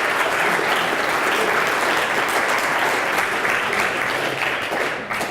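Audience applauding, a steady round of many hands clapping that dies away near the end.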